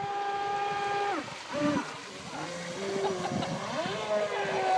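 Electric motor whine of a battery-powered model speedboat running on the water, held steady, then dropping sharply in pitch about a second in as the throttle is eased, with short blips before it climbs back up to a steady whine near the end.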